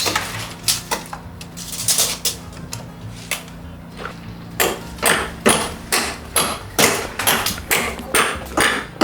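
Hard objects clinking and knocking against each other: scattered strikes at first, then a quick run of about two to three a second from about halfway in, over a faint low steady hum.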